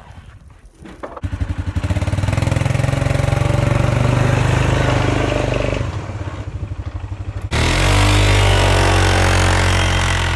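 Arctic Cat 500 ATV's single-cylinder engine starting about a second in and running steadily, easing off around six seconds in. About two seconds before the end it comes in suddenly louder with a rising pitch as the engine revs.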